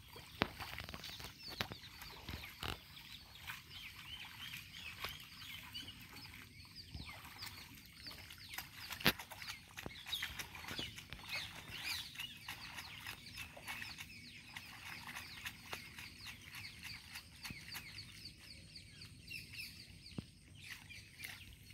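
Birds chirping in a continuous chorus of short, high calls, faint throughout. A few sharp clicks stand out, the loudest about nine seconds in.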